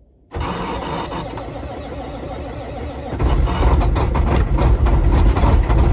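Semi truck's diesel engine cold-started in near-freezing weather: the starter cranks for about three seconds, then the engine catches about three seconds in and runs louder and rough, as it does when cold.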